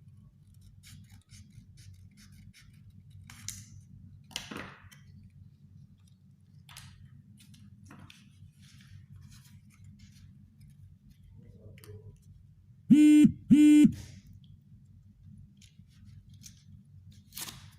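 Faint cutting, crinkling and clicking of a cigarette-pack carton being worked with scissors and a cutter, over a steady low hum. About thirteen seconds in, two short, loud, pitched beeps come half a second apart and are the loudest sound.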